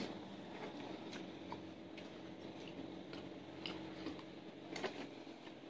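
Quiet eating sounds: scattered small clicks and smacks of chewing, with a short cluster near the end and a faint steady hum underneath.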